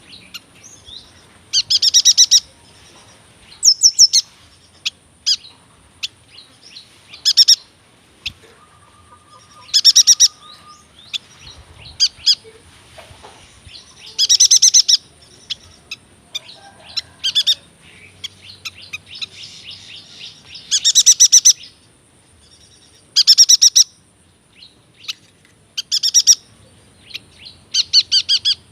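Yuhina singing: loud bursts of fast, rapidly repeated high notes, each about half a second to a second long, coming every two to three seconds, with softer chirps and twitters between them.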